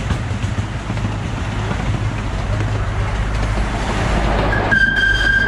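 Amusement-park miniature train running on its track with a steady low rumble, likely passing through a tunnel. A high held tone sounds for about a second near the end.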